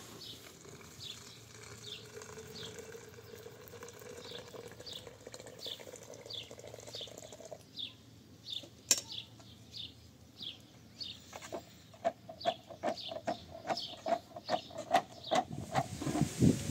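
A bird chirping repeatedly, short high falling notes about once a second. In the second half there is a run of quick, regular knocks, with a single sharp click near the middle.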